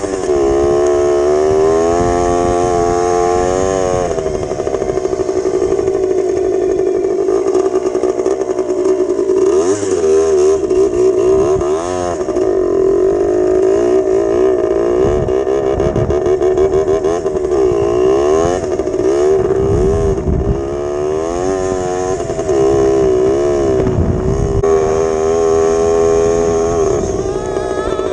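1983 Yamaha DT80's small two-stroke single-cylinder engine being ridden, revving up and dropping back again and again as it pulls through the gears.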